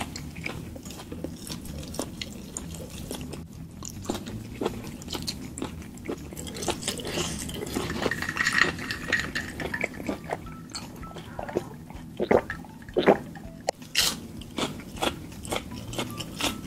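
Close-miked chewing and biting of food, a steady run of wet smacks and small crunches with a few sharper snaps near the end.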